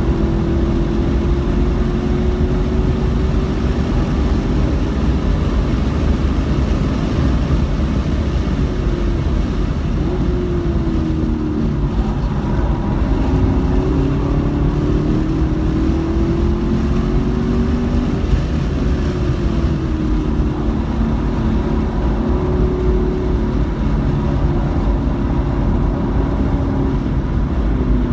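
Car engine heard from inside the cabin while lapping a racetrack at speed, its pitch rising and falling several times as the car slows and accelerates, over a steady rumble of road and wind noise.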